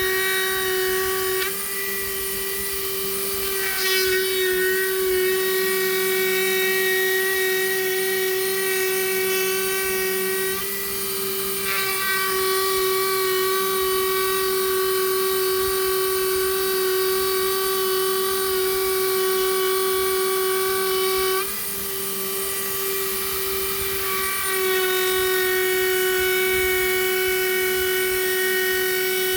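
High-speed power carving tool running with a steady high whine as it grinds into manzanita wood. Its tone shifts several times as the bit's contact with the wood changes.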